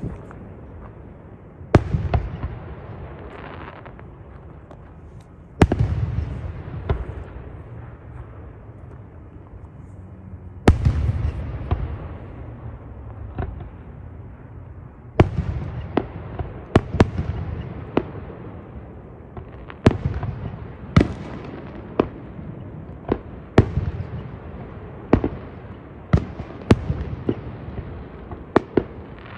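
Fireworks going off: a deep boom with a rolling echo every four or five seconds, then from about halfway a faster string of sharp cracks, roughly one a second.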